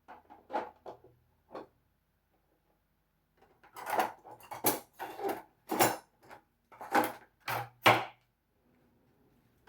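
Knife cutting a watermelon on a cutting board: a few light knocks, then after a short pause a run of about ten louder crunching strokes, each ending in a knock of the blade on the board.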